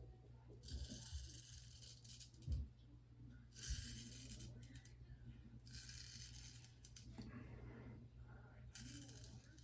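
Vintage straight razor scraping through lathered two-and-a-half-day stubble: about four separate strokes, each a crackly, rasping scrape about a second long, a couple of seconds apart.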